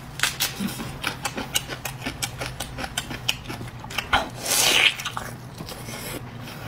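Close-miked chewing and mouth sounds: a quick run of small clicks and smacks. About four and a half seconds in comes a louder, longer bite into a braised stuffed pig stomach. A steady low hum runs underneath.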